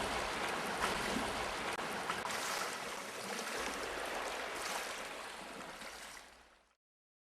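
Steady rush of moving water, sea waves or running water, with a low rumble underneath, fading out about six seconds in.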